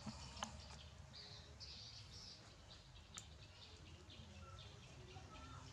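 Faint high bird chirps, repeated several times, with two soft clicks.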